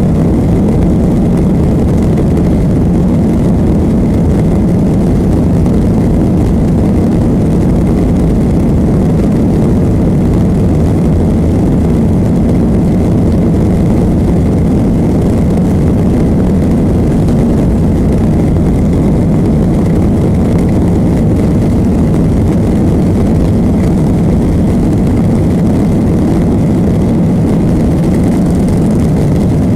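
Steady, loud engine and airflow noise of a jet airliner heard from inside the passenger cabin, unchanging throughout.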